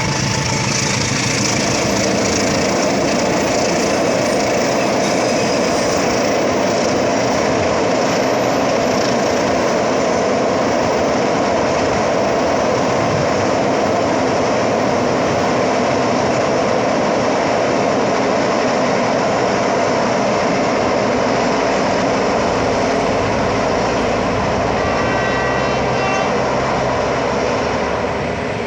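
Train passing close by, its wheels running on the rails in a loud, steady rumble that lasts nearly half a minute.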